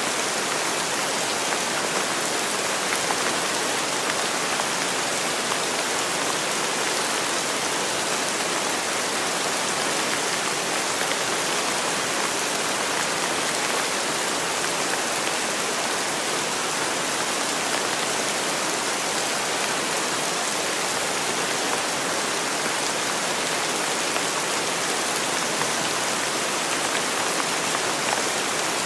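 Steady rain falling on a surface, an even patter without a break or a change in strength.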